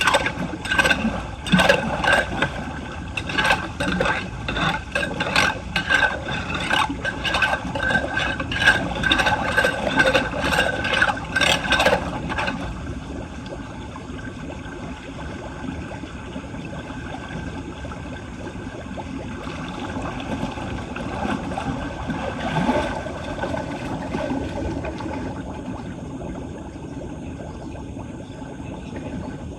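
Rapid scraping and knocking strokes, about two a second, as debris is cleared from a clogged street drain; they stop after about twelve seconds. A steady rush of water follows, with one more knock later on.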